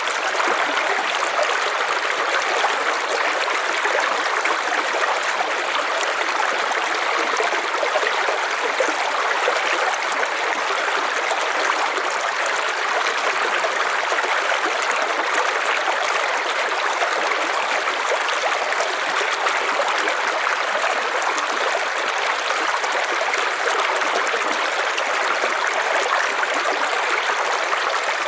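River water flowing steadily over stones, an even rushing and trickling with no breaks.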